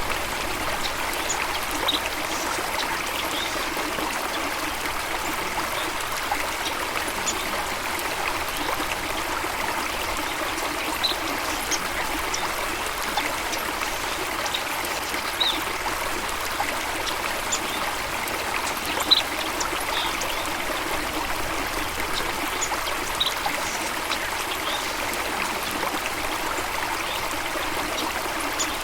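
Steady running water, with short, high bird chirps scattered irregularly throughout.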